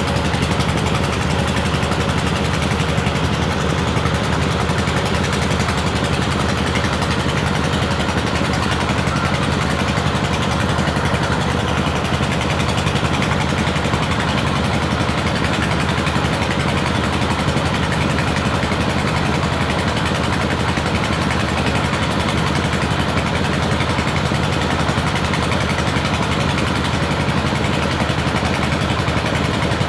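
Homemade water-well drilling rig running steadily under power: an even mechanical drone that holds the same pace throughout.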